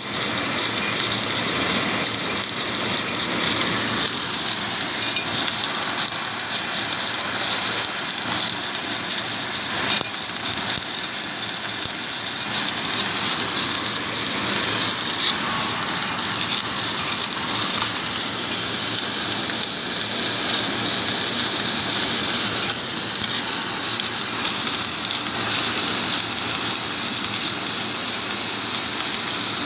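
Submerged arc welding (SAW) in progress: a steady, even rushing noise with a thin high whine above it, running on without breaks.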